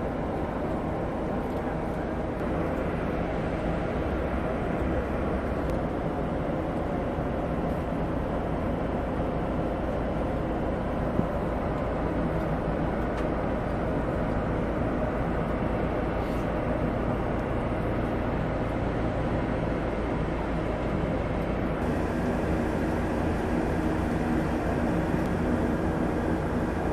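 Steady engine and road noise of a moving vehicle, a continuous low rumble with a faint hum that shifts slightly about 22 seconds in.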